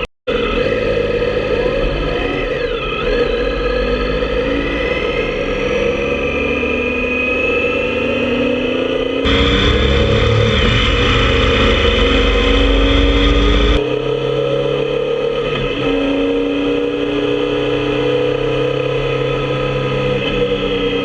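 Motorcycle engine running on the road, its pitch climbing slowly as it gathers speed. For about four seconds in the middle, a louder rushing noise cuts in and then cuts out abruptly. There is a brief dropout at the very start.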